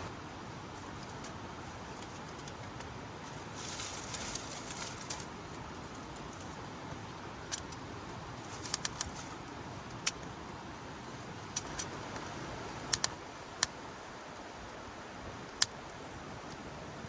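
Wood campfire crackling: scattered sharp pops, a dozen or so at uneven intervals, over a steady low hiss, with a brief hissing flare about four seconds in.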